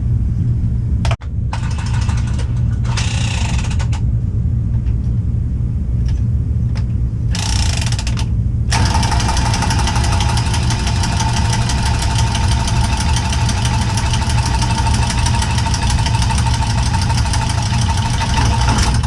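Steady low mechanical hum of running machinery; about nine seconds in, a motor-driven tool with a steady whine starts and runs on.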